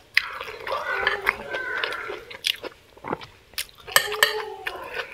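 Close-miked chewing and mouth sounds of someone eating, with scattered sharp clicks of a metal fork and spoon against a ceramic plate.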